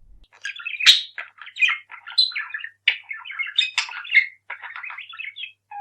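A parrot chattering and squawking in a rapid run of short, sharp calls, the loudest about a second in.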